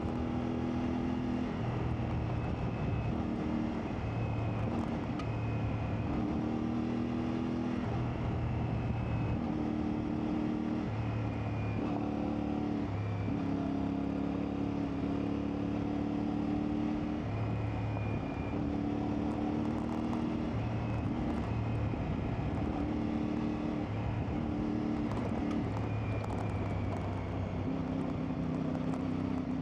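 CFMoto 450MT's parallel-twin engine running while riding off-road. Its pitch holds for a second or two at a time and then steps up or down as the throttle and gears change.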